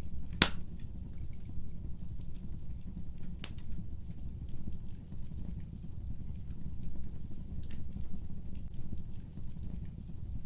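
Fire burning with a steady low rumble and scattered crackles, with a sharp pop about half a second in and another about three and a half seconds in.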